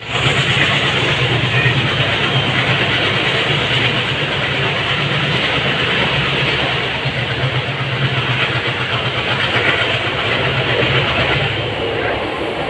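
Diesel-hauled express train running, heard from inside a passenger coach: a steady rumble and rattle with a low, pulsing diesel locomotive chug that is strongest in the first half.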